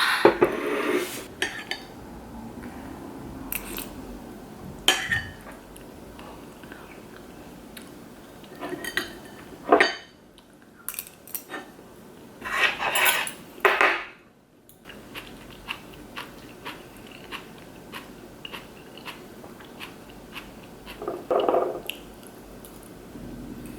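Dishes and metal utensils clinking and clattering now and then in a kitchen, in short scattered bursts with quieter gaps between.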